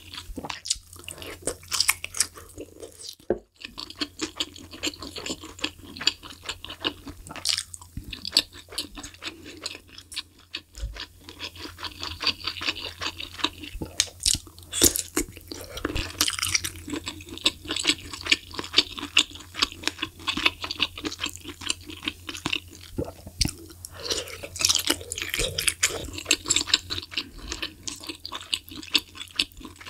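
Close-miked chewing of malatang, a fish ball and wide glass noodles, with a dense run of small sharp mouth clicks.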